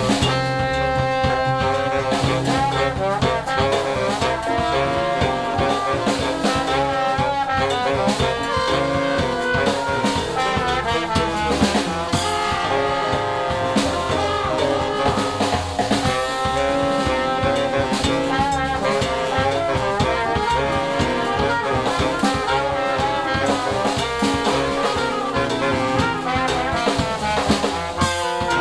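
Jazz band playing, with horns such as trombone, trumpet and saxophone over a drum kit.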